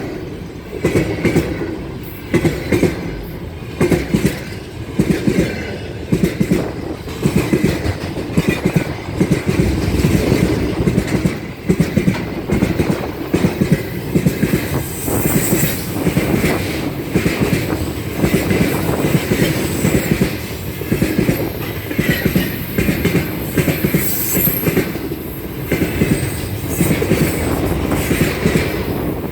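Freight train rolling past, its wheels clattering over the rail joints in a continuous irregular run of knocks. A faint high wheel squeal comes and goes around the middle and again later.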